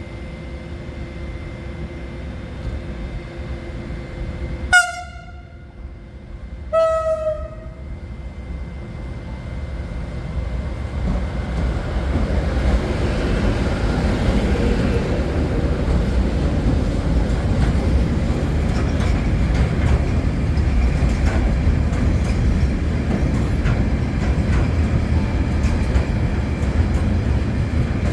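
Freight train locomotive sounding its horn twice, a short blast and then a longer, slightly lower one. Then the train arrives and passes, its wheels rolling on the rails in a steady, loud rumble.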